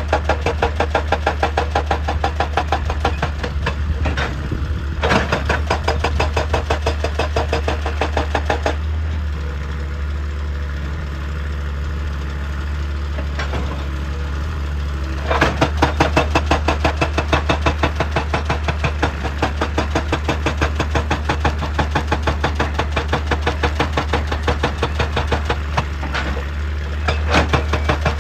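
Hydraulic excavator working, its engine running under a rapid, even train of knocks. The knocking drops away for several seconds in the middle and then resumes.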